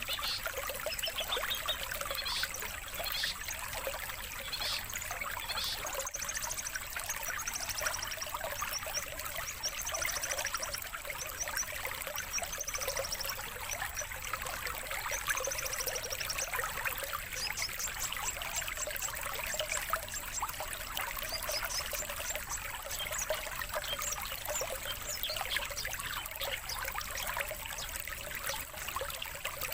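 Recorded songbirds chattering and trilling, with quick chirps and fast runs of repeated high notes, over a steady sound of trickling water. It is a lure and training recording for long-tailed shrikes and competition birds.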